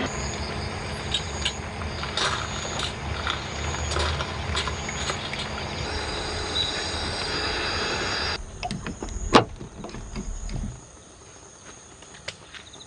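Heavy rain: a dense hiss with scattered drop hits. About eight seconds in it cuts off abruptly to something quieter, with one sharp click and a brief low rumble.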